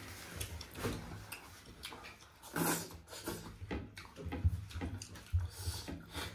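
Close-up chewing and mouth smacks of someone eating, with irregular wet clicks and a louder smack about two and a half seconds in.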